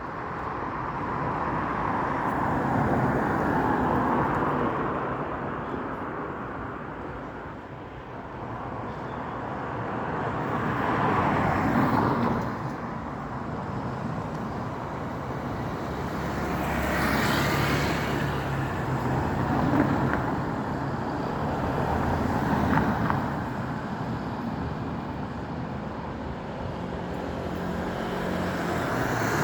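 Road traffic: cars and motorcycles passing one after another, each swelling up and fading away over steady road noise.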